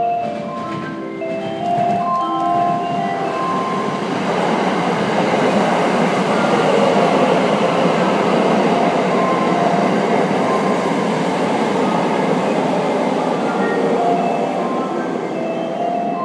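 A limited express electric multiple-unit train runs past along the platform. Its wheel-on-rail rumble swells, holds loudest through the middle as the cars go by, then fades. Background music with separate held notes plays over it, most audible at the start and end.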